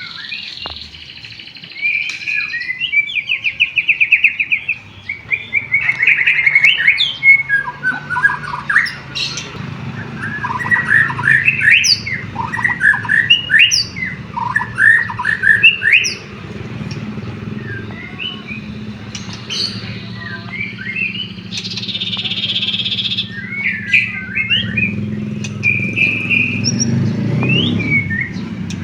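White-rumped shama (murai batu) singing a long, varied song of whistled phrases, fast trills and harsh squawking notes, with canary-like phrases worked in. A low steady hum runs underneath.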